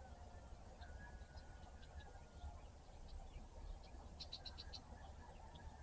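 Faint songbirds calling: a long thin whistled note about a second in, scattered short high chirps, and a quick run of about five high notes around four seconds in, over a steady low rumble.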